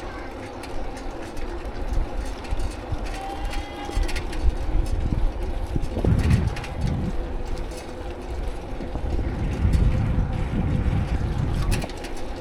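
Wind rumbling on the microphone in uneven gusts, over steady road noise from a moving bicycle ride. A faint steady tone sits underneath, and a brief higher pitched tone comes about three seconds in.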